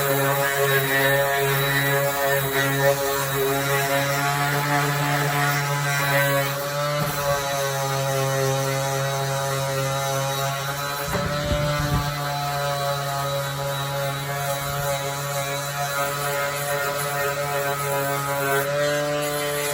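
Electric power sander's motor running steadily at a constant pitch, with gritty sanding noise over the first several seconds and a couple of brief low knocks from handling.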